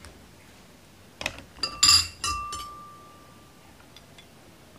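Metal spoon clinking against a ceramic bowl several times about a second in, the last clink leaving a ringing note that fades over about a second and a half.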